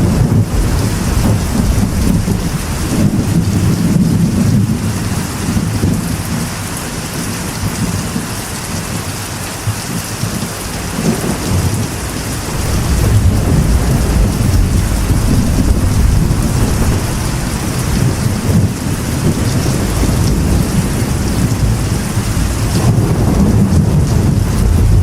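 Steady heavy rain with rolling thunder. The thunder rumble eases off partway through and builds again after about twelve seconds.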